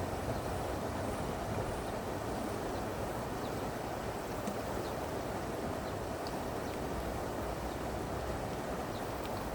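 Steady rush of flowing stream water, with a few faint ticks on top.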